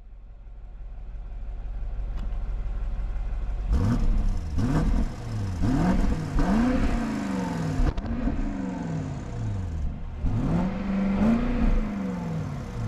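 BMW X5 M50i's twin-turbo petrol V8 heard at the exhaust tips, idling with a low rumble and then, from about four seconds in, revved in a string of quick blips. The pitch rises and falls with each blip, there is one longer hold near the end, and short crackles come at several of the throttle changes.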